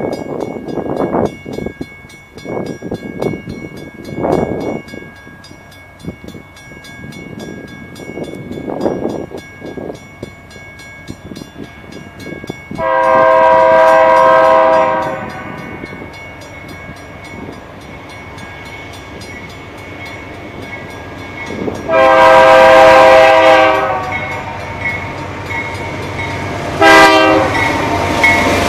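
Freight locomotive air horn sounding the grade-crossing signal: two long blasts, a short one, then a final long one starting near the end. Before the first blast there is about a dozen seconds of irregular rumbling from the approaching train.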